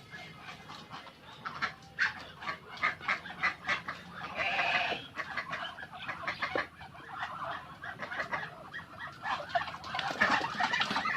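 Poultry clucking and calling in a run of short, irregular sounds, with one longer call about four seconds in and busier calling near the end.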